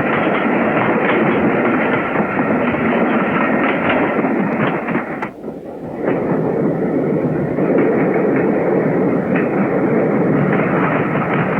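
Steam locomotive Flying Scotsman, an LNER A3 three-cylinder Pacific, running at speed: a loud, dense rush of exhaust and wheel noise with many short knocks. It dips briefly about five seconds in, then comes back as loud.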